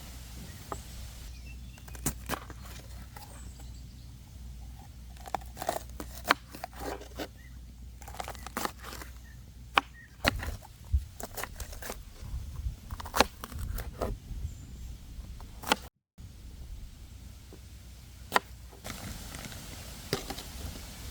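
Campfire crackling, with scattered sharp clicks and pops over a steady low rumble and a brief dropout about sixteen seconds in.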